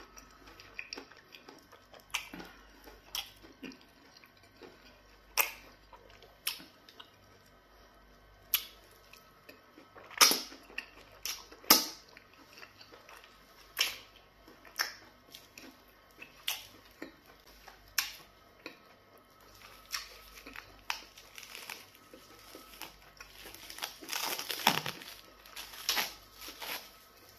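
Close-up eating sounds: wet chewing and sharp lip smacks while eating pounded yam fufu with black soup and goat meat by hand, scattered every second or two, the loudest about ten and twelve seconds in. Near the end there is a longer rustle as a piece is pulled off a plastic-wrapped ball of fufu.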